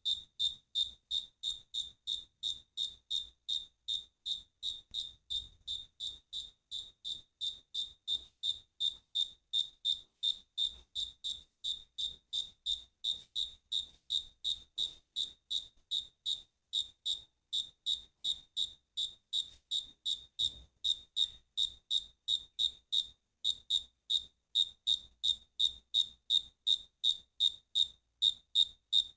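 A cricket chirping in a steady, even rhythm, about three high-pitched chirps a second, with a couple of brief pauses.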